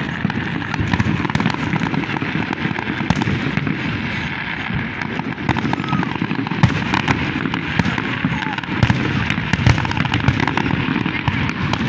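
Aerial fireworks display: a continuous run of shell bursts and crackling, with a few louder bangs in the second half.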